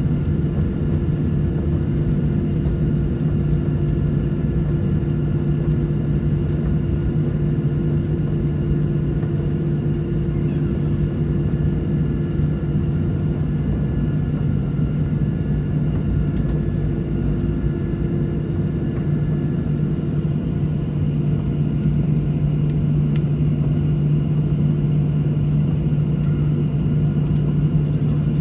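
Airliner cabin noise recorded from a passenger seat: a steady, unbroken drone of engines and airflow, with a constant low hum and fainter higher tones above it.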